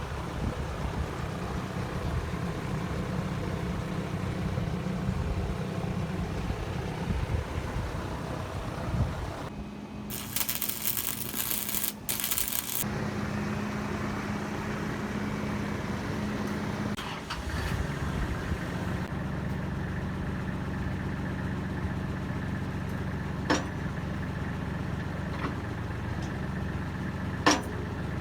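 Kubota L35 backhoe's diesel engine idling steadily. About ten seconds in, the engine sound gives way for roughly three seconds to a harsh high hiss. Near the end there are a few sharp clicks.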